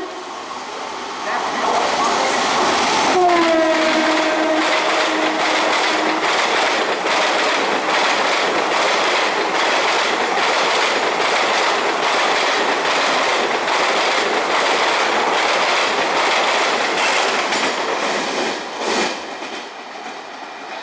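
Passenger train passing through at speed: the locomotive's horn gives one long blast about three seconds in, its pitch dropping as it passes, then the coach wheels clatter rapidly over the rail joints. The clatter eases off near the end.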